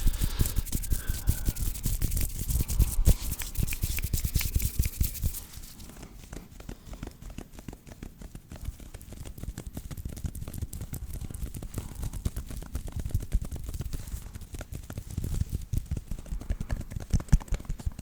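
Hands rubbing and brushing together close to the microphone in fast, dense strokes, louder for the first five seconds or so and then softer.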